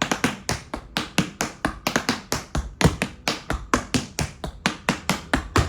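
Tap shoes' metal taps striking the floor in a quick, steady run of crisp clicks: a tap dancer repeating a four-sound paddle and roll of riffle (open third), step, heel.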